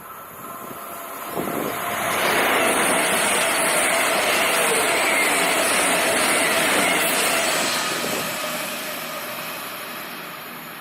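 A train passing by: its running noise swells over a second or two, holds, then fades away.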